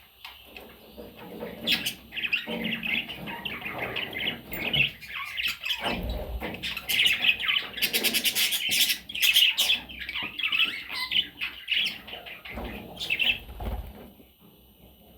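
Pet budgerigars chattering and chirping, a busy stream of quick high chirps with a fast trill about eight seconds in, dying away near the end.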